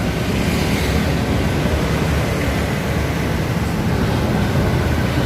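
Steady street traffic noise, a continuous low rumble with hiss, without distinct events.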